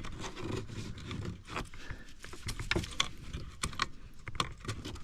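Irregular small clicks and rattles of plastic wiring-harness plugs being handled and pushed into their sockets under a car's steering column.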